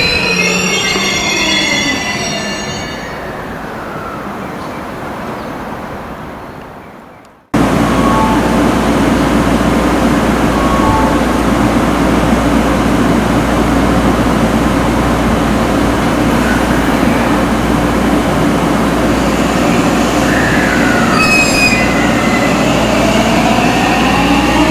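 521 series electric train: its wheels squeal in several falling tones as it brakes to a stop, then the sound fades out. After a cut, a steady hum comes from the standing train. Near the end a rising whine begins as its motors start to pull it away.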